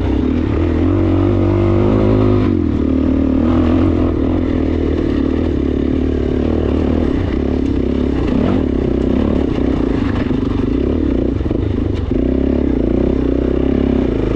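Suzuki DR-Z400S single-cylinder four-stroke engine running under way on a dirt trail, its note changing about two and a half seconds in and dipping briefly near the end.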